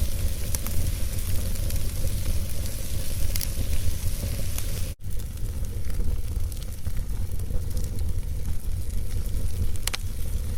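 Wood fire burning in a fireplace: a steady hiss and low rumble of flames with scattered sharp crackles and pops from the logs. A split-second dropout about halfway through.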